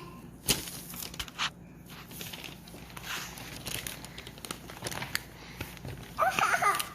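Crinkling and rustling of things being handled, with a few sharp light knocks; a child's short vocal sound near the end.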